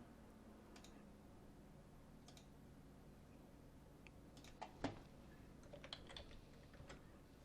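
Faint, scattered clicks of a computer keyboard and mouse: a few single taps, then a quicker cluster in the second half, with one sharper click just before the middle of that cluster.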